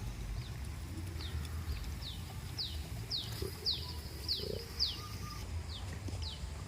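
A bird singing a series of about a dozen short notes, each sliding down in pitch, roughly two a second and loudest in the middle, over a steady low rumble.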